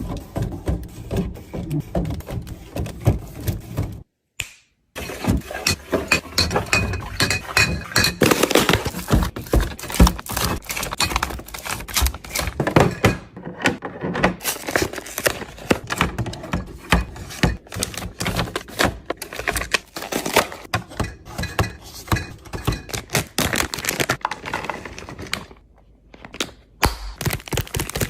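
Food containers, bottles and packaging being handled and set down while a refrigerator is restocked: a run of irregular knocks, clicks and clatter, with a short gap about four seconds in.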